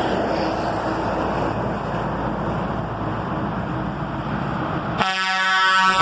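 Trucks rumbling past with engine and road noise for about five seconds, then a loud truck air horn blowing, its pitch sagging slightly.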